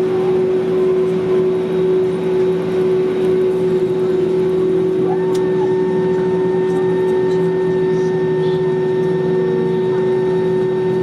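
Airbus A320neo cabin noise with the engines running at a steady hum. A higher steady whine joins about five seconds in, with a few faint clicks.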